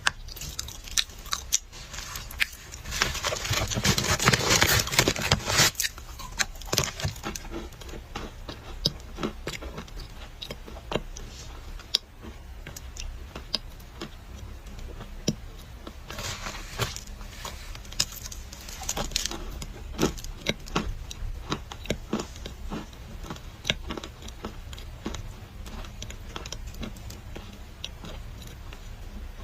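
Dry clay crunching and crackling in close-up: rapid sharp cracks, densest and loudest about three to six seconds in, with another thick patch past the middle.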